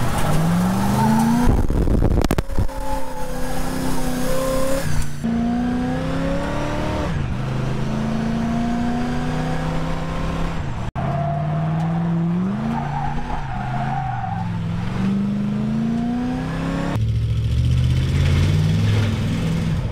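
Pontiac GTO's V8 engine accelerating, its note climbing in pitch several times over, with abrupt cuts between the runs.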